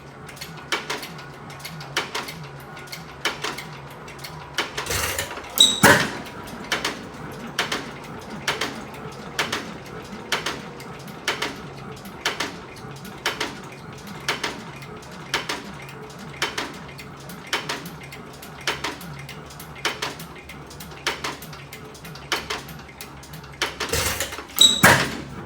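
6 hp Associated hit-and-miss engine running, its regular clicking at about one and a half beats a second as it coasts. Two louder bursts, about five seconds in and near the end, are where it fires.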